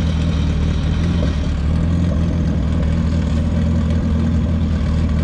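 Engine of a modified EG Honda Civic hatchback idling, loud, deep and steady.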